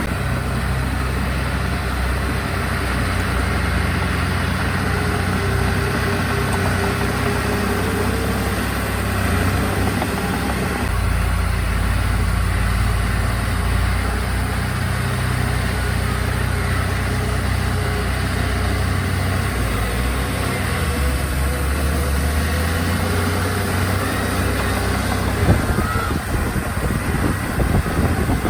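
Diesel engines of heavy earthmoving machinery running steadily, with a change in engine note about eleven seconds in and a few knocks near the end.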